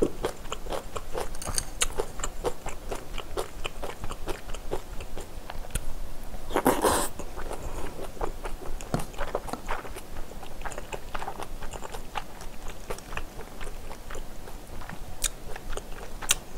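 Close-miked eating of Spam kimchi stew with Vienna sausage: rapid wet chewing and biting clicks and smacks, with one longer, louder noisy burst about seven seconds in.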